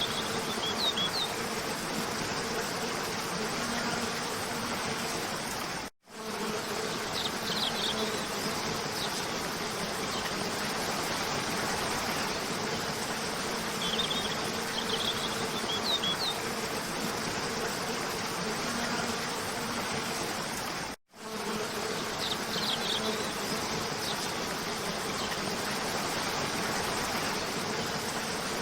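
Steady rushing water of a cascading waterfall with a low steady buzz under it, and short clusters of high bird chirps every several seconds. The sound drops out for a split second twice, about 6 and 21 seconds in, where the looped recording restarts.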